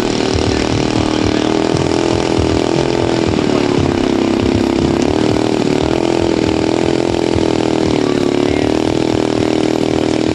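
XYZ 53cc twin-cylinder gas engine of a large radio-controlled scale model plane running steadily at low throttle, its pitch wavering slightly up and down.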